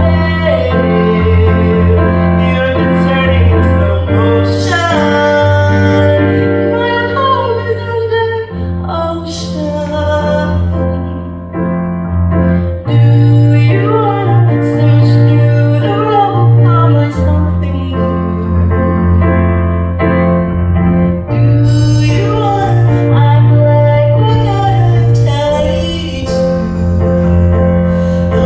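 A woman singing a slow song with gliding, drawn-out vocal lines over sustained accompaniment chords that change every few seconds.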